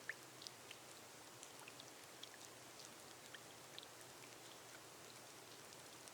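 Faint, gentle rain on a glass greenhouse roof: a soft steady hiss with scattered single drops tapping.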